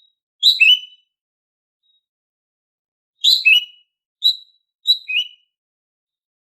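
Female greater green leafbird (cucak ijo) giving its daily calls: four short calls, most of them a sharp higher note slipping down to a lower one, with gaps of up to two seconds between.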